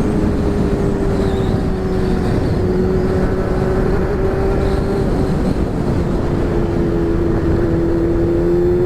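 Honda Hornet's inline-four engine running through an aftermarket exhaust at a steady, nearly unchanging pitch while the motorcycle cruises, over a heavy rush of wind and road noise.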